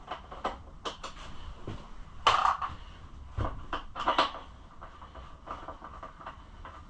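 Hand tool work on a dirt bike's plastic shrouding: scattered clicks and light knocks of a Phillips screwdriver, screws and plastic panels being handled, with a louder clatter about two seconds in and again about four seconds in.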